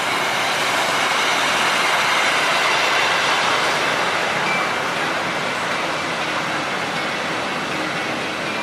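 Train running past on the rails: a steady rush of wheel-on-rail noise that swells and then slowly fades, with faint thin squeals near the end.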